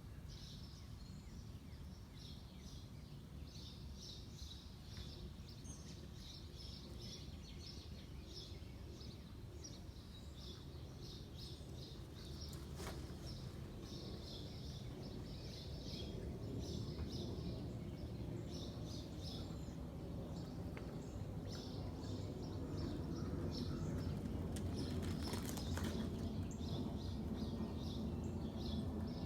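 Small birds chirping repeatedly over a low, steady rumble that grows louder through the second half.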